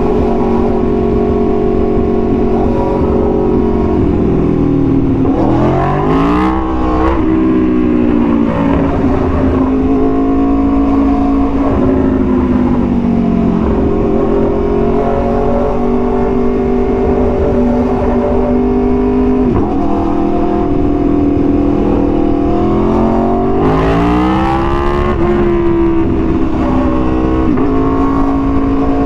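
Aprilia Tuono V4 1100's V4 engine through an SC-Project exhaust, running at steady revs under way. Twice the revs drop and then climb again, once a few seconds in and once near the end.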